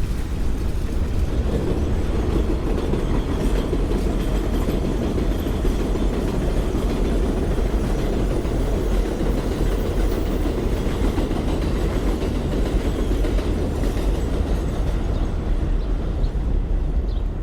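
Elevated subway train passing on the steel el structure above the street, a steady loud noise of wheels on rails.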